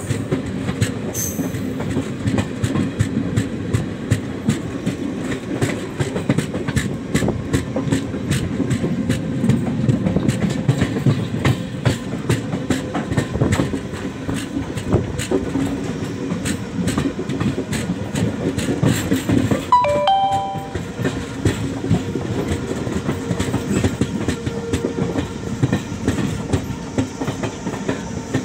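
Passenger train running at speed, heard on board: a steady rumble with the clickety-clack of the wheels over rail joints. A short horn sounds about two-thirds of the way through.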